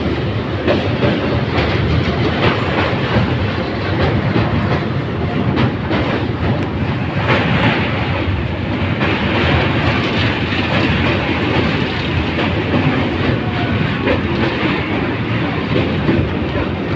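Passenger train running over a steel truss railway bridge, heard from an open coach doorway: a steady loud rumble and clatter of wheels on the rails.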